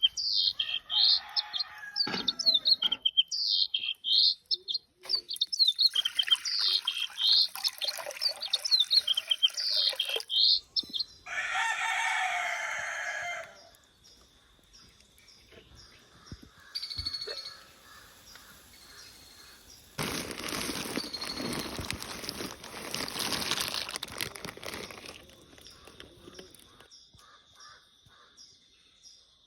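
A flock of parakeets calling in the trees, a dense run of high, repeated chirping screeches for about the first ten seconds, then a rooster crowing once, loudly, about eleven seconds in. After that it goes quiet apart from a steady high thin tone, with a stretch of rushing noise for several seconds about two-thirds of the way through.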